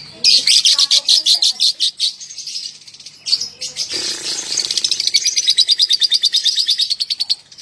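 Young lovebird chattering its long 'ngekek' song: a rapid string of high-pitched notes in two runs, a short one at the start and a longer, unbroken one from about three seconds in.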